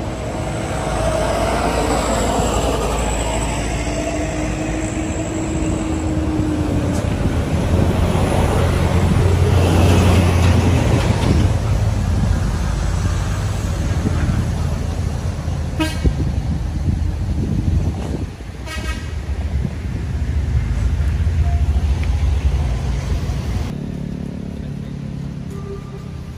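Road traffic: a vehicle engine running with a steady low rumble, and a horn sounding for a few seconds near the start.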